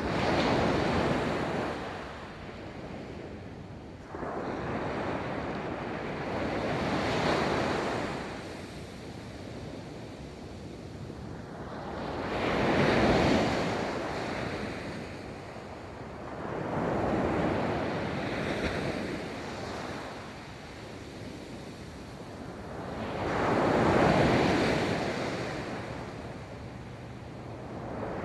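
Ocean waves breaking and washing up a beach, each surge swelling and falling away about every five to six seconds, with wind on the microphone.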